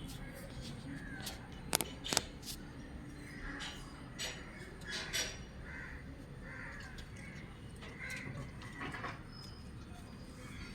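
Cockatiel making short, scratchy calls scattered throughout, with a couple of sharp clicks about two seconds in.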